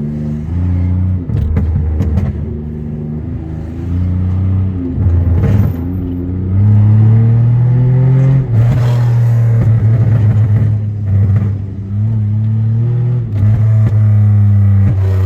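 Catless Pontiac Grand Prix GT's 3.8-litre V6 exhaust revving hard in a low gear, surging and falling back several times, with bursts of crackling pops as it lets off.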